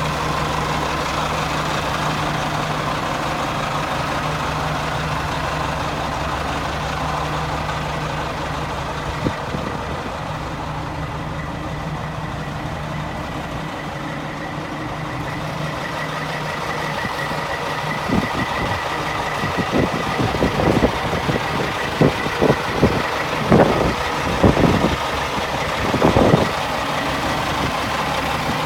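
Caterpillar diesel engine of a 2000 Sterling dump truck idling steadily. In the last third, a run of irregular sharp knocks and clatters sounds over the idle.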